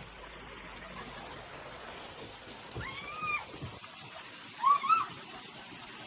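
A cat meowing: one drawn-out meow about three seconds in, then two short meows just before five seconds.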